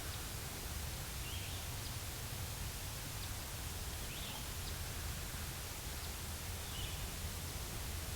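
Quiet woodland ambience: a steady hiss and low rumble, with a faint short bird call repeating about every three seconds.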